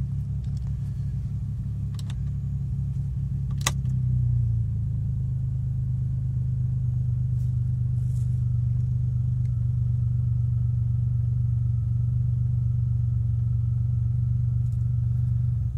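Suzuki G10T turbocharged three-cylinder engine idling, heard from inside the cabin as a steady low hum. A sharp click about four seconds in, after which the idle hum is slightly louder and steadier.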